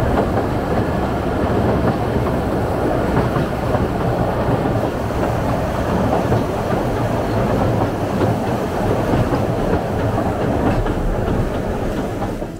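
Oigawa Railway Ikawa Line passenger train running over a steel bridge, heard from the car's window: a steady rumble of wheels on rails.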